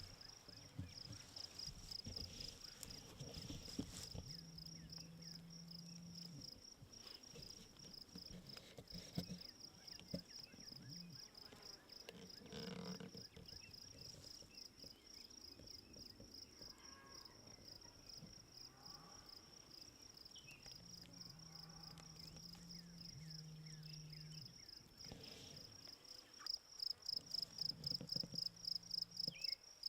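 Insects trilling in a steady high pulse of about three or four chirps a second, loudest near the end. Low, drawn-out cattle moos come three times underneath.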